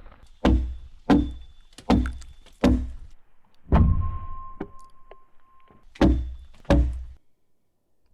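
An axe chopping into a log: seven heavy, sharp strikes, four in quick succession, then one, then two more.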